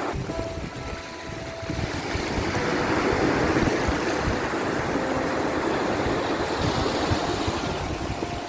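Sea waves surging in and washing out: a steady rushing that swells about three seconds in and slowly eases, with a few faint thin tones heard briefly over it.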